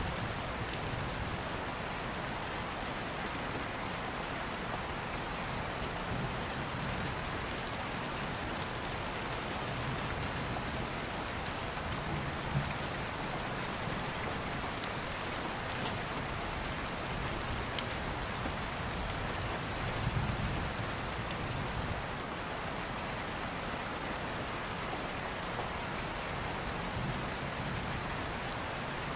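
Steady rain falling, with soft low rumbles of thunder now and then and a few faint crackles from an open fire.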